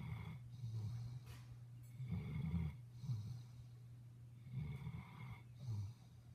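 A sleeping dog snoring: a longer snore followed by a shorter one, in a cycle that repeats about every two and a half seconds.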